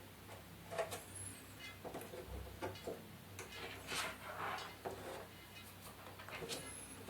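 Faint, scattered knocks and clicks of objects being handled, about one a second, over a low hum.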